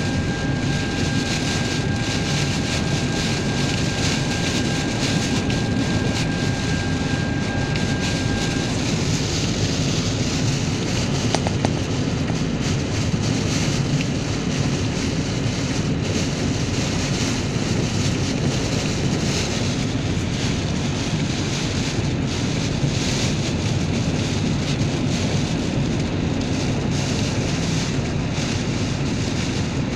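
Typhoon wind and rain making a steady, loud roar of noise on the microphone. For about the first nine seconds a steady whistle-like tone runs over it, then stops.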